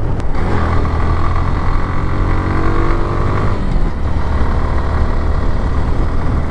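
Motorcycle engine running under way, its note rising steadily for the first few seconds as the bike accelerates, then settling to a steady drone.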